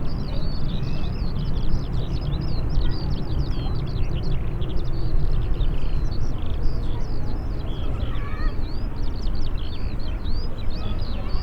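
Many small birds chirping rapidly and continuously over a steady low rumble.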